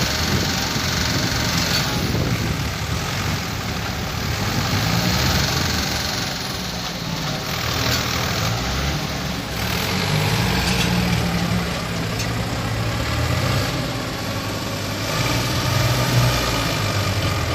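Vehicle engine idling steadily, a low continuous engine rumble.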